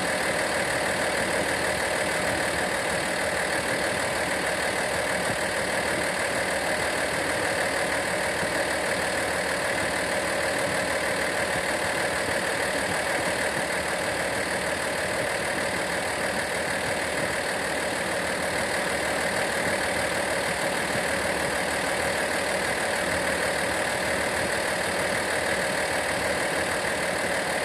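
Engine idling steadily, holding the same speed throughout.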